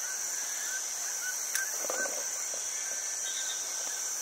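Steady high-pitched buzzing chorus of rainforest insects, with a few faint short bird chirps over it.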